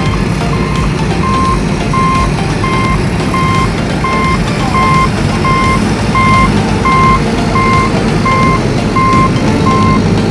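Vehicle reversing alarm beeping evenly, about one and a half short beeps a second, over a steady low rumble.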